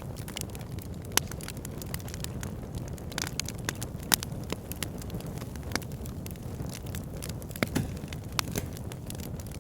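Wood fire in a backyard fire pit crackling, with sharp irregular pops over a steady low rush of burning; the loudest pops come about a second and about four seconds in.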